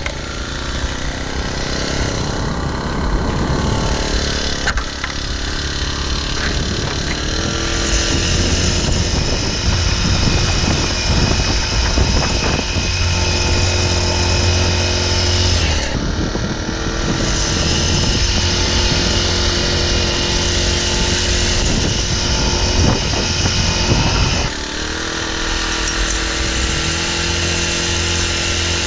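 Engine-driven machinery running steadily on a concrete job site, its pitch dipping briefly about halfway through and dropping slightly a few seconds before the end.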